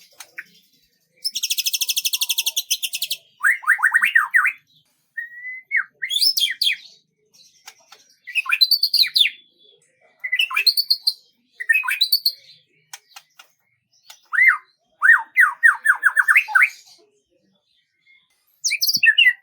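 A songbird singing in separate short phrases of fast trills and quick runs of chirping notes, with brief pauses between phrases.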